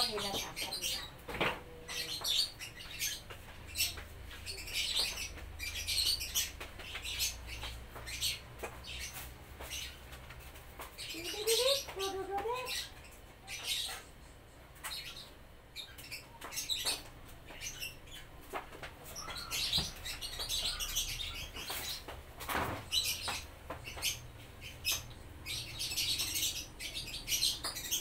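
Birds chirping over and over, high-pitched, with scattered light knocks and clicks.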